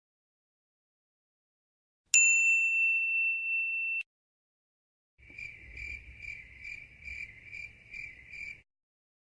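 Sound-effect clips: a single bright "ding" that rings for about two seconds and cuts off suddenly, then a high chirping like crickets, about two to three chirps a second for some three seconds.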